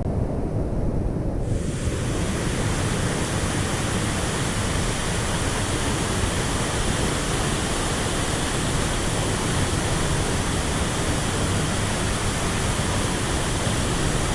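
Steady rushing of a waterfall pouring into a pool, muffled for the first couple of seconds and then fuller and brighter.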